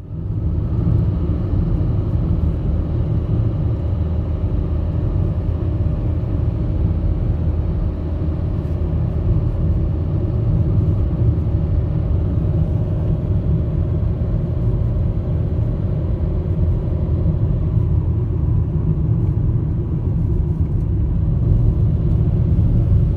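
Steady low rumble of a running motor vehicle, even throughout, with faint constant tones above it; it starts and cuts off abruptly.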